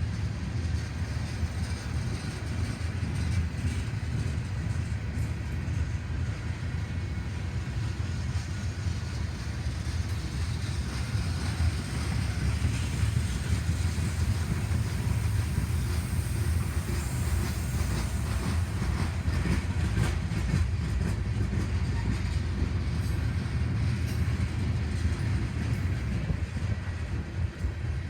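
A train rolling past with a steady low rumble of wheels on rails, and scattered clicks of wheels over rail joints.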